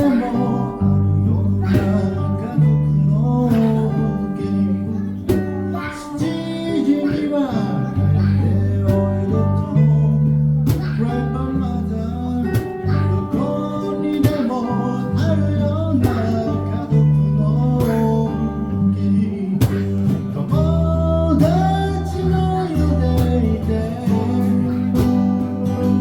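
Live band playing a song: strummed guitar over a bass line and drums, with a gliding melody line above.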